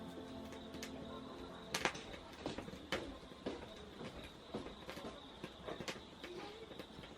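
Wood fire crackling in a Solo Stove Campfire fire pit, with irregular sharp pops, the loudest about two seconds in and again about three seconds in. Background music fades out during the first two seconds.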